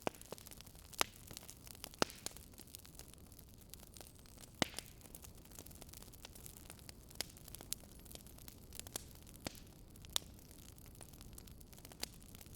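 Wood fire crackling: irregular sharp pops and snaps, a few louder ones, over a steady soft hiss.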